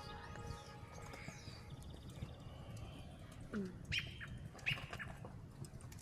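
Faint outdoor background with birds chirping: a few short calls and falling notes in the second half.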